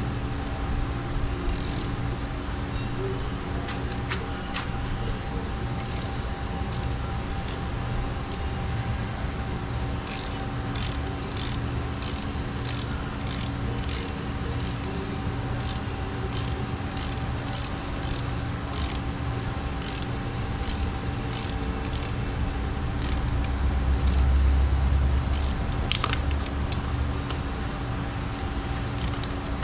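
Ratchet wrench clicking in a steady rhythm, about two clicks a second, as the bolts are run back into the outboard's water pump housing, over a steady background hum.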